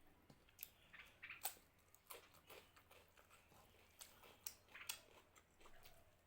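Close-miked eating sounds: a person chewing a mouthful of mutton curry and rice, with irregular wet smacks and clicks.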